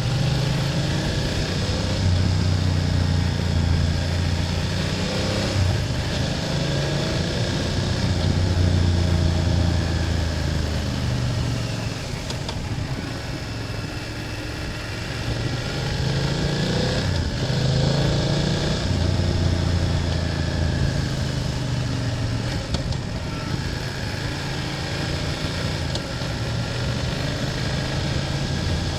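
BMW F800GS parallel-twin engine under way, its pitch rising and falling as the throttle opens and closes through curves, easing off for a few seconds around the middle before pulling again.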